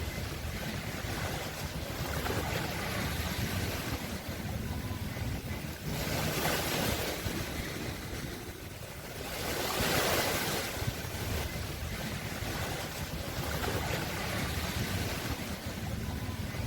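Sea waves breaking and washing on the shore, a steady rush of surf that swells and ebbs, with stronger surges about six and ten seconds in.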